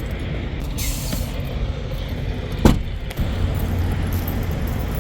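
Semi truck's Detroit diesel engine idling with a steady low rumble, a short air hiss about a second in and a single loud thump a little past halfway.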